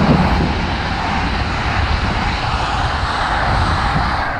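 LNER Azuma high-speed train passing close at speed: a steady rush of air and wheels running on the rails.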